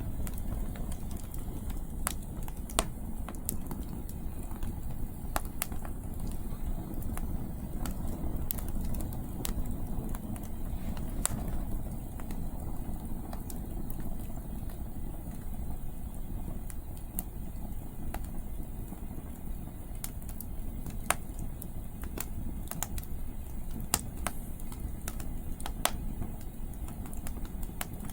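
Wood campfire burning with irregular sharp crackles and pops from the firewood, over a steady low rumble of wind.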